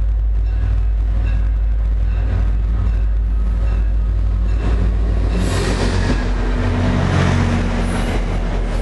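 NJT GP40PH-2 diesel locomotive running close by with a steady low engine rumble; about halfway through, the noise of the train's wheels on the rails swells in as the train moves past.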